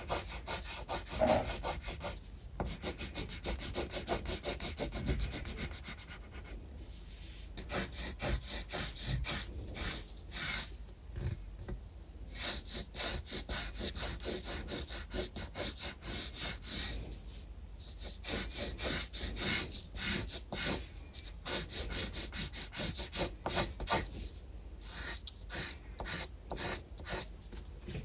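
Pencil scratching on sketchbook paper in quick back-and-forth shading strokes, with a few short pauses between runs of strokes.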